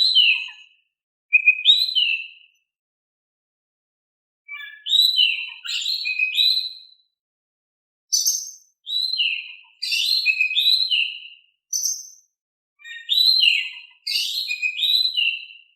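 Oriental magpie-robin (kacer) singing in bouts of clear, varied whistled phrases, the notes sliding up and down, with short silent gaps between bouts.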